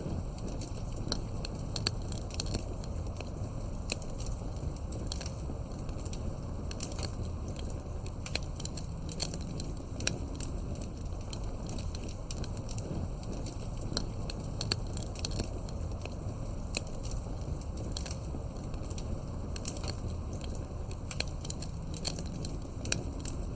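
Campfire burning: irregular sharp crackles and pops from the burning wood over a steady low rush of flames.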